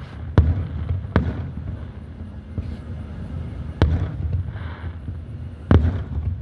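Fireworks shells bursting: four sharp booms a second or more apart, over a low rumble that echoes back off the surrounding mountains.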